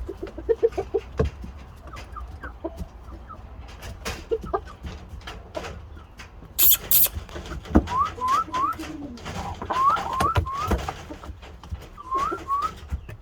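Shamo chickens calling softly. There are short rising notes in groups of two or three, lower calls near the start, and scattered knocks and scratching, with a brief rustle about seven seconds in.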